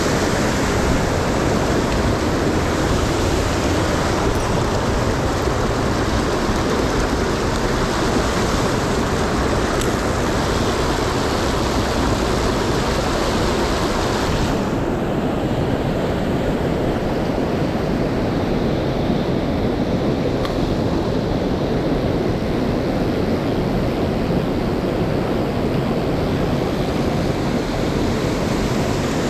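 Loud, steady rush of a mountain stream's fast-flowing water. About halfway through it suddenly turns duller, losing its hiss.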